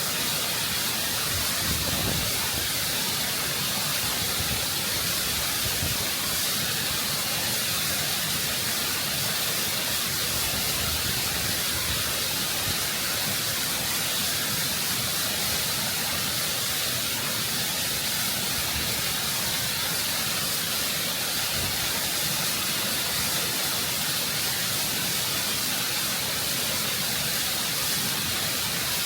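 Waterfall water rushing and cascading over rock, close up: a constant, full hiss with no breaks.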